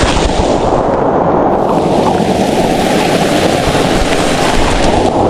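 Heavy rain coming down hard, a loud steady hiss and patter close to the microphone.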